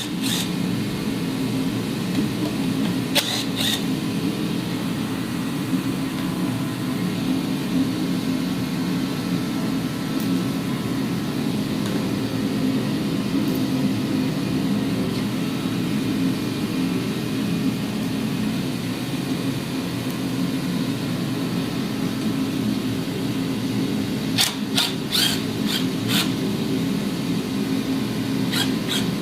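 A steady machine hum, like a fan or small motor running, with a few brief clicks scattered through it and a quick cluster of them near the end.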